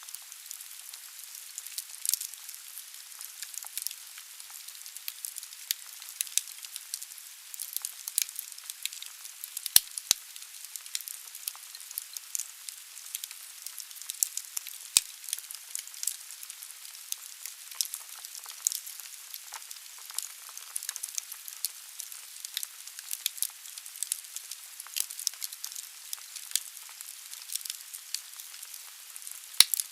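Firewood burning in a fireplace: a steady hiss with dense, irregular crackling and a few sharper, louder pops.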